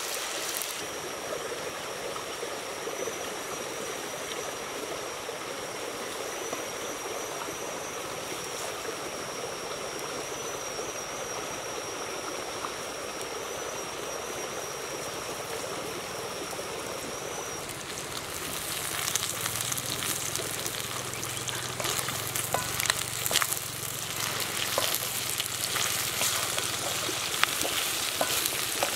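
Chicken pieces frying in oil in a wok over a wood fire, with a steady sizzle. From about 18 seconds in it gets louder, with crackling and sharp clicks as vegetables are stir-fried with the chicken and a spatula scrapes the wok.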